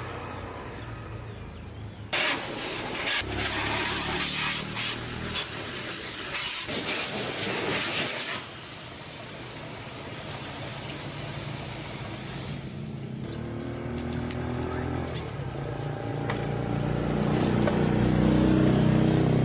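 Motor engines running, with a loud hiss of air that starts abruptly about two seconds in and cuts off about six seconds later; the engine sound grows louder near the end.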